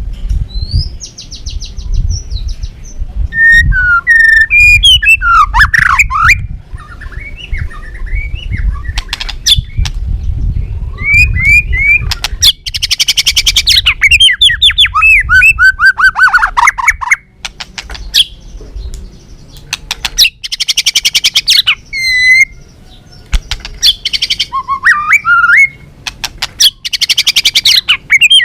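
White-rumped shama singing a loud, varied song of whistled glides and sweeping notes, broken by several bursts of very rapid repeated notes. A low rumble lies under the first half.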